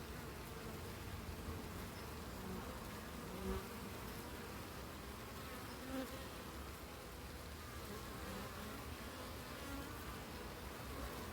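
Honey bees buzzing steadily at a crowded hive entrance, with single bees now and then flying close past; twice, about a third and about halfway in, one passes louder. The colony is cramped behind an entrance reducer turned to its smallest opening.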